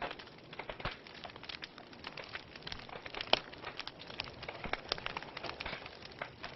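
Wood logs burning in a fireplace, crackling with irregular pops and snaps over a soft hiss, one sharper pop about halfway through.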